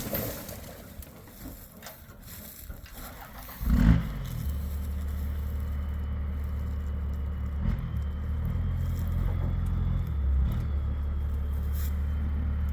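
A thump about four seconds in, then a vehicle engine running steadily at low revs, with a few faint scrapes and clicks.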